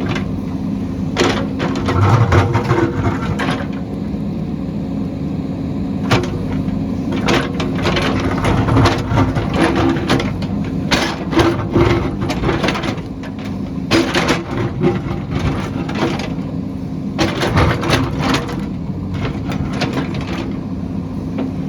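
A heavy construction machine's engine running steadily, with repeated sharp clanks and knocks at irregular intervals over it.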